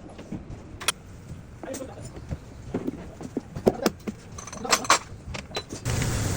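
Irregular light metallic clinks and clicks, then a steady engine running noise sets in abruptly about six seconds in.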